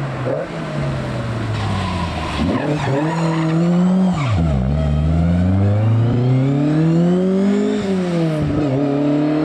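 Rally car engine under hard acceleration, the revs climbing steadily then dropping sharply twice, about four and a half and nine seconds in, as it shifts gear or lifts.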